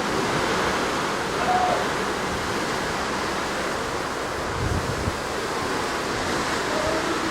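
Steady rush of sea water washing past a moving cruise ship, with wind buffeting the microphone in a low gust about halfway through.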